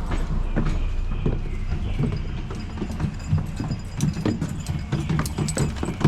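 Footsteps of a person walking, hard steps knocking at uneven spacing over a low steady rumble.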